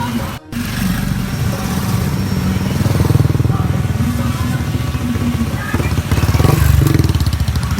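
Motorcycle engines running in a group of rally bikes, with a steady rumble whose pitch rises and falls. The sound cuts out for an instant about half a second in.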